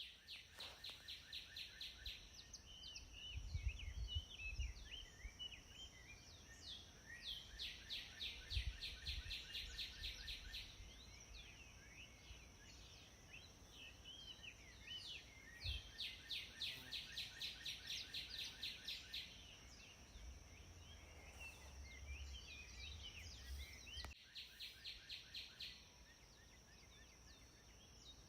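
Several songbirds singing, with chirps and repeated fast trills of rapid notes, each lasting two or three seconds, over a steady high-pitched hiss. Brief low rumbles come and go.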